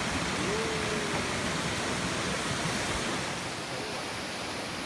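Waterfall: a steady rush of falling water. The deep low rumble drops away about three seconds in.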